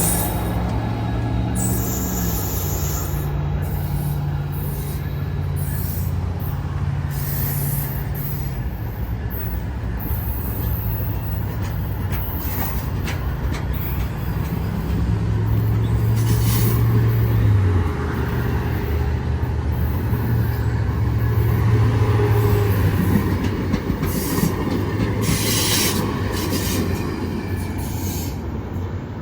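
A train running: a steady low drone that shifts in pitch a few times, over continuous rumbling rail noise.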